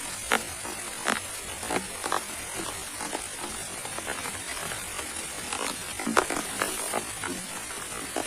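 Steady rain hiss with irregular louder drops tapping close by, several a second at uneven intervals.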